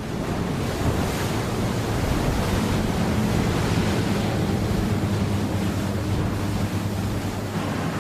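Motorboat engine running steadily under a loud rush of water and wind.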